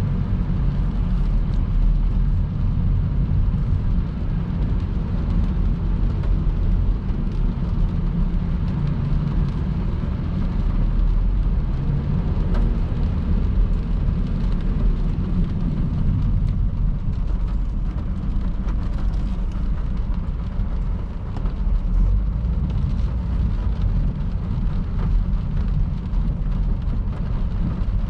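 Car driving at highway speed in the rain: a steady low rumble of road and tyre noise on wet pavement.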